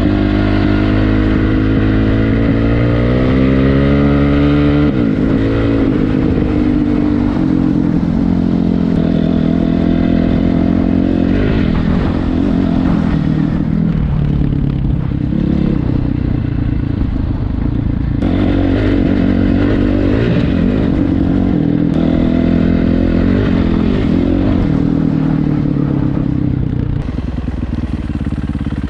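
Dirt bike engine running under throttle as the bike is ridden: its pitch climbs for the first five seconds, falls sharply, then rises and falls with the throttle for the rest of the ride.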